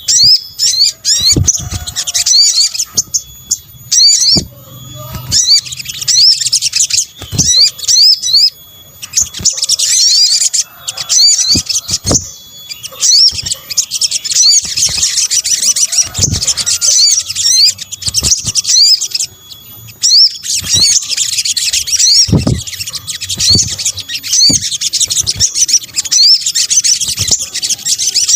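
Recorded song of the sogok ontong, a small long-billed nectar-feeding bird: rapid, high-pitched chirps and trills in phrases a second or more long with short breaks, played as a lure call. A few low thumps sound under it.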